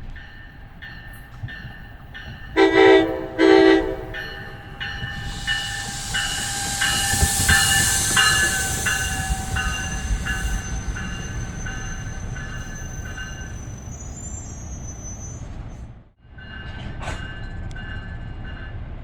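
A NJ Transit train's bell rings steadily, a little under twice a second, and its horn sounds two short, loud blasts about two and a half seconds in. A hissing rush of the train follows, and the bell stops near the end, then is heard again briefly after a short break.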